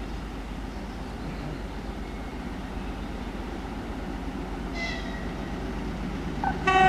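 Low, steady rumble of an approaching train. A brief high whistle sounds near the end, then a train horn blasts loudly in the last half second.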